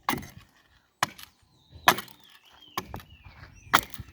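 Dry firewood sticks knocking and cracking as they are handled and piled: a series of sharp wooden knocks about a second apart.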